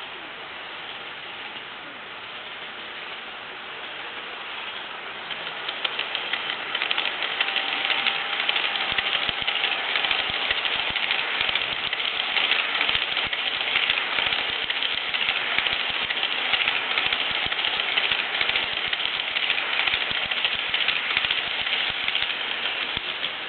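HO gauge model of an E231 series Yamanote Line train running on model track, its wheels clicking and rattling over the rail joints and turnout points. The sound builds about five seconds in, stays loud through the middle as the train passes close, and eases near the end.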